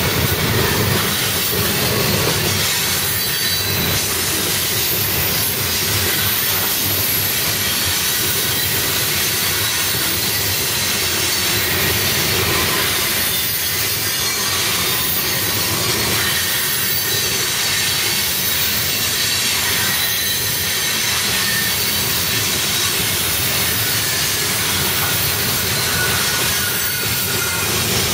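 Open-top coal hopper cars of a CSX freight train rolling past: a steady, continuous rumble and hiss of steel wheels on rail, with faint high-pitched wheel squeal.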